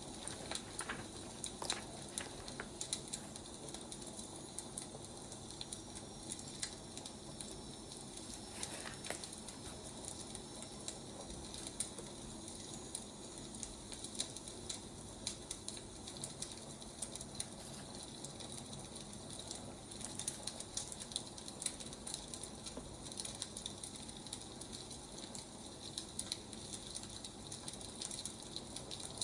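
Burning firewood crackling and popping in irregular short clicks over a steady low hiss.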